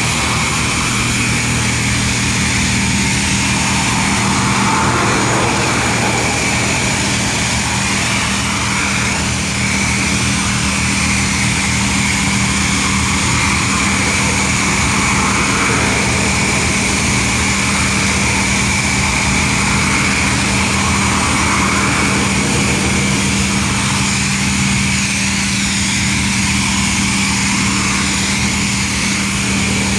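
A motor running steadily, a constant hum with an even hiss over it.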